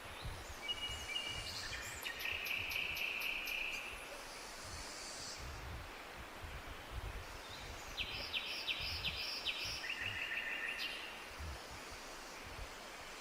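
A songbird sings two short trilled phrases of rapid repeated notes, one starting about a second in and another about eight seconds in, over a steady rushing background noise.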